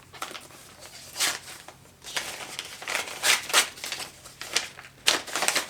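Packaging being handled and torn open: crinkling and rustling in several bursts, the longest a little past the middle.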